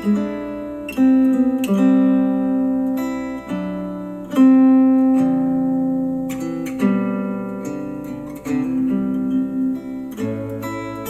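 Acoustic guitar music, chords struck every second or two and left to ring, played back through a Sony SRS-XB43 Bluetooth speaker.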